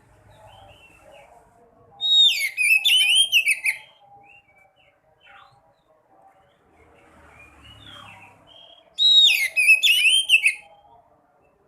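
Sekoci songbird singing two loud bursts of fast, twittering song with sliding, falling whistles, about seven seconds apart, over faint steady chirping in the background.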